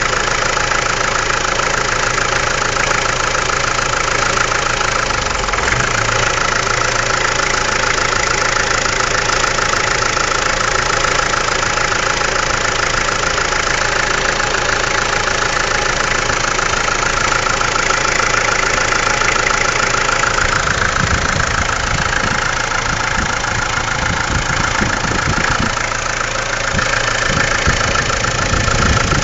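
Mahindra MM 540 DP tractor's diesel engine running steadily, most likely at idle. The lowest part of the engine sound changes over the last third.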